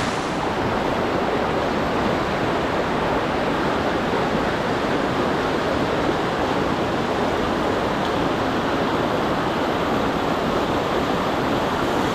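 Salmon River current rushing steadily, an even, unbroken wash of flowing water.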